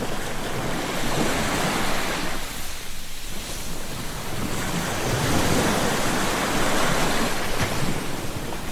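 Ocean waves breaking and washing on the shore, the surf swelling and falling back, with a lull about three seconds in before the next wave builds. Wind buffets the microphone.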